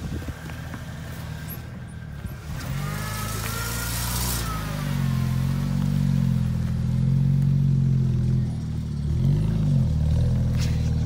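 BMW 335i with catless downpipes, its engine and exhaust running with a steady low drone that grows louder. There is a rush of passing noise about three seconds in, and a short dip and swell in the engine note near the end.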